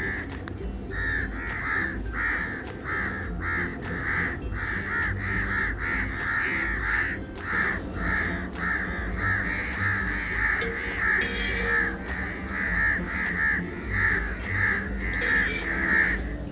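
Birds calling over and over in short harsh calls, two or three a second with brief pauses, stopping abruptly near the end, over a steady low hum.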